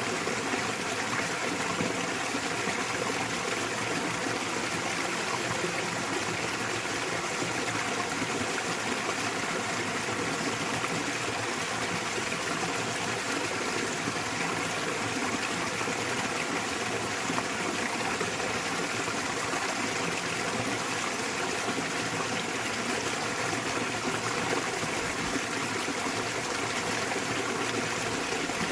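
A small waterfall in a mountain stream, its water falling and rushing steadily without a break.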